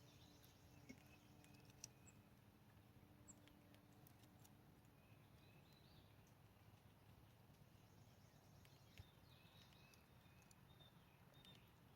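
Near silence: faint outdoor ambience with a few soft clicks and faint, distant bird chirps, more of them near the end.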